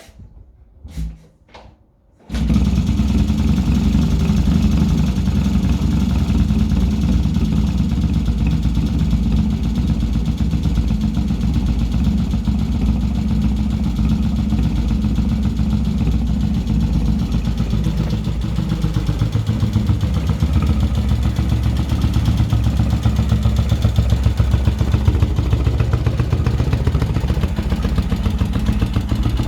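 A few clicks, then an engine starts about two seconds in and keeps running steadily, its pitch settling slightly lower a little past halfway.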